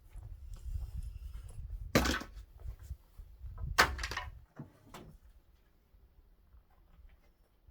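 Two loud bangs about two seconds apart and a fainter knock a second later, over a low rumble that stops about four and a half seconds in.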